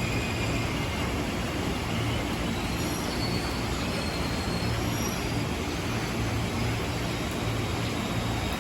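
An electric commuter train (a JR 205 series trainset) runs along the platform with a steady rumble and hum, while heavy rain makes a constant hiss. Faint high wheel squeal comes and goes in the first half.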